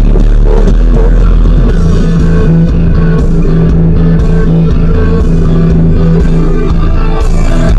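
Rock music played very loud through a truck's car audio system, with heavy steady bass.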